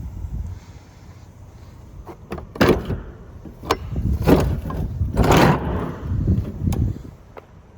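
Truck doors and latches being handled: a string of clicks and knocks starting about two seconds in, with a longer scraping rush about five seconds in.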